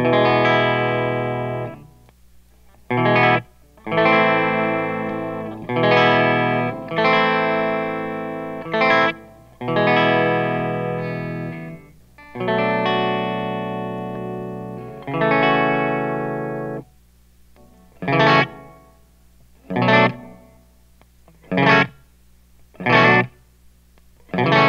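Clean electric guitar, a Schecter C-1 Classic through an 18-watt Steamboat Classic 18 amp with the Line 6 M13's reverb on, strummed chords that ring for a second or two each. About 17 seconds in, the playing changes to short chord stabs roughly every one and a half seconds.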